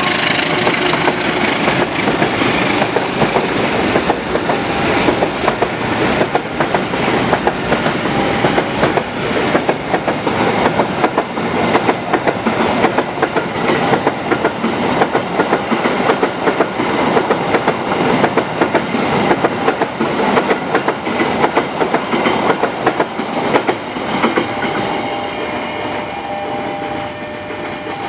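A train passing close by, its wheels clacking rhythmically over the rail joints. The clacking eases off slightly near the end.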